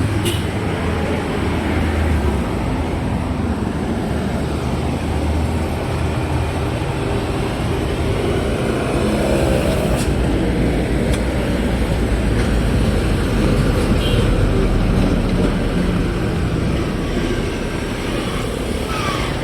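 Steady vehicle engine rumble and road traffic noise, with a few sharp clicks.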